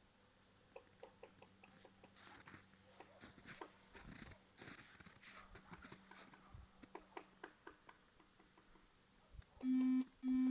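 Faint scattered clicks and crackles over a quiet background, then near the end two short, loud, steady-pitched beeps about half a second apart.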